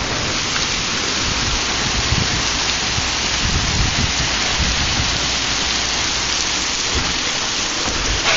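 Heavy thunderstorm downpour: a dense, steady hiss of rain, with an uneven low rumble underneath.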